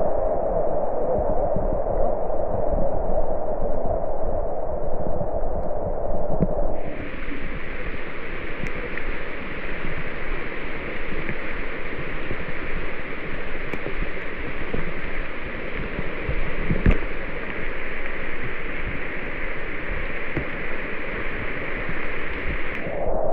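Steady hiss of heavy rain in the rainforest with a low rumble underneath. The sound is muffled at first, turns brighter about seven seconds in, and goes muffled again just before the end.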